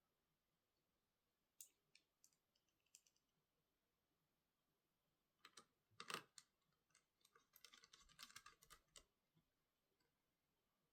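Faint scattered clicks and taps on a laptop, with a soft knock about six seconds in and a quick run of clicks around eight seconds.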